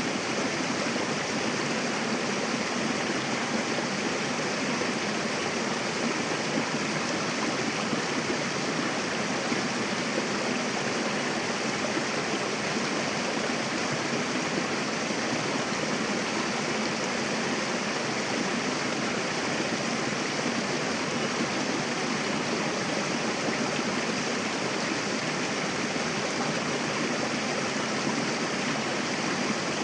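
Mountain river rushing over rocks, a steady, even roar of flowing water.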